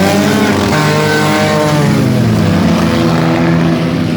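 Several demolition derby car engines revving at once, the pitch climbing over the first second and then holding near steady.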